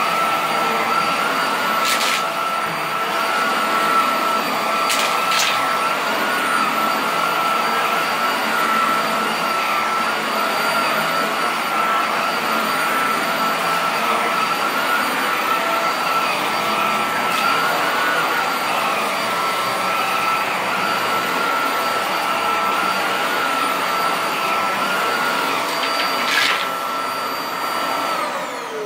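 Vacuum cleaner running steadily while picking up debris from a shag carpet, its motor holding a steady whine, with a few sharp clicks along the way. The motor is switched off near the end and runs down.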